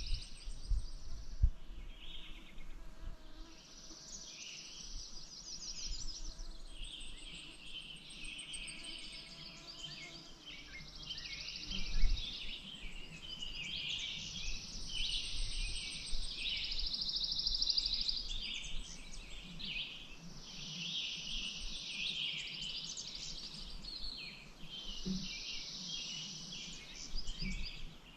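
Several wild birds singing over each other in overlapping phrases, some of them rapid trills lasting two or three seconds. A few low thumps break in, the loudest about twelve seconds in.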